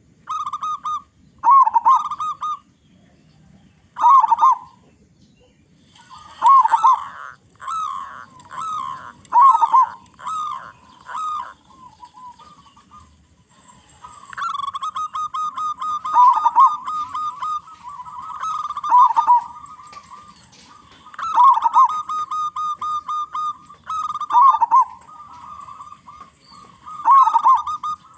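Local perkutut (zebra dove) cooing: repeated phrases of rolling coos, spaced a couple of seconds apart at first and coming in quicker runs from about a quarter of the way in. In the second half a steadier note runs beneath the phrases.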